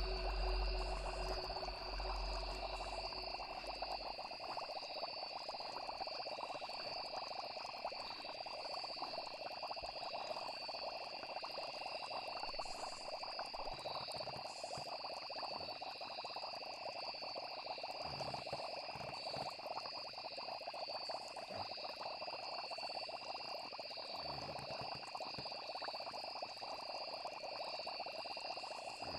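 Night chorus of frogs croaking together with crickets chirping steadily in the background. A low musical drone fades out in the first few seconds.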